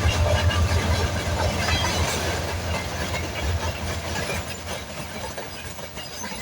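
Mixed freight train rolling past, wheels clattering on the rails over a low rumble that slowly fades.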